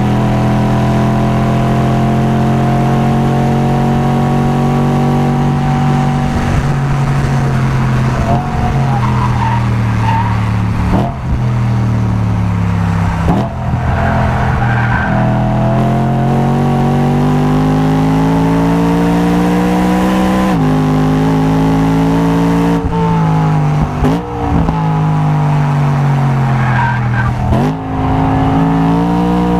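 Onboard sound of a car engine being driven hard on a race track. Its pitch climbs steadily under acceleration and jumps sharply several times at gear changes and braking, with brief tyre squeal in a few corners.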